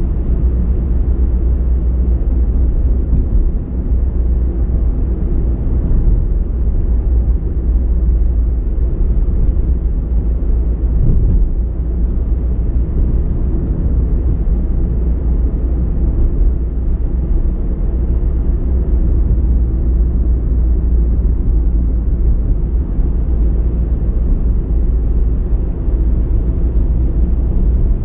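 Car driving steadily: a continuous low rumble of engine and road noise with no change in pace.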